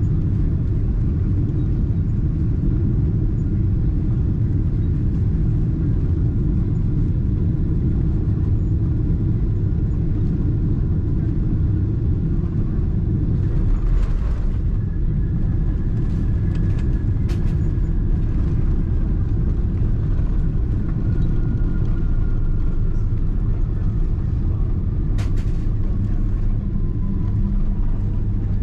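Cabin noise of a Boeing 777-200ER on its landing roll: a steady heavy rumble of the wheels on the runway and the engines. A thin whine falls slowly in pitch through the second half, with a brief rush about halfway and a few sharp rattles.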